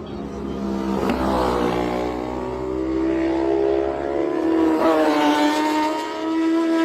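Racing motorcycle engine at full throttle, its pitch climbing steadily, then dropping briefly at a gear change near the end and climbing again.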